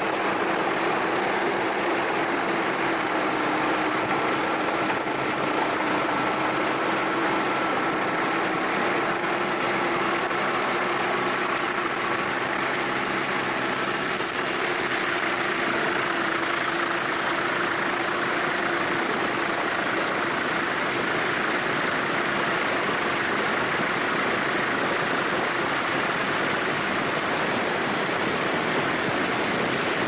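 Steady machinery running noise with a faint droning hum. About halfway through the hum fades and the noise turns more hissing.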